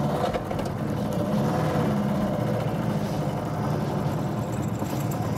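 Lada four-cylinder engine running steadily on only three cylinders, with a shattered block and its oil lost after a broken connecting rod tore through cylinder 4.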